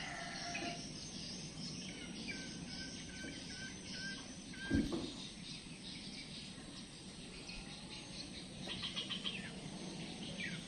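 Outdoor ambience with a bird calling: a run of short, evenly repeated notes, then a quicker run of notes later on, over a steady background hiss. A single dull thump comes about midway.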